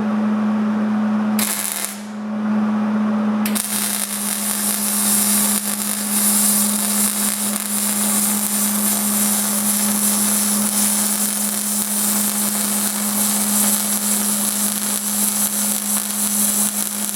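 Electric arc welding on thin sheet steel: a brief spurt of arc crackle about a second and a half in, then a long continuous crackling bead from about three and a half seconds on. The heat is turned up high enough that the weld blows through the thin metal once in a while. A steady hum runs underneath.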